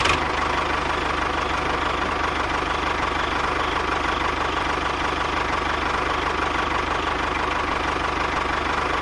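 Small engine running steadily at idle, an even, unchanging hum with a fast low pulse.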